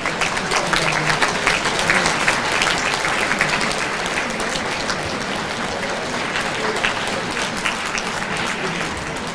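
Audience applauding, swelling quickly and easing off slowly.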